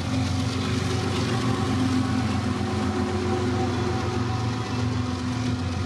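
Freight train rolling past, a steady rumble with a low, even hum.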